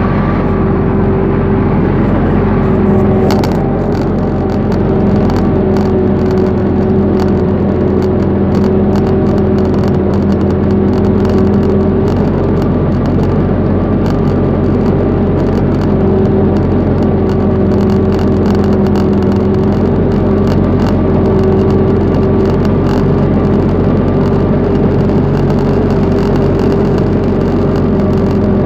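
Diesel engine of a UTB U650 tractor running steadily under load while ploughing, heard close up from the driver's seat, with faint irregular clicking over its even hum.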